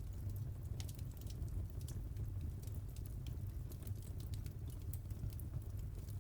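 Wood fire crackling: many small, irregular pops and snaps, several a second, over a steady low rumble of the flames.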